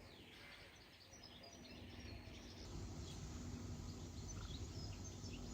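Small birds chirping and twittering, many short high calls scattered throughout, over a low steady outdoor rumble.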